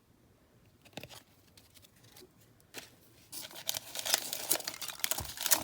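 Quiet at first, then a little over three seconds in, a baseball card pack's wrapper crinkling and tearing open, a dense run of quick crackles.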